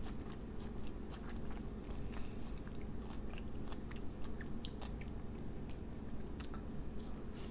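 Close-miked chewing of raw fish and octopus poke, with many quick, irregular wet mouth clicks and smacks.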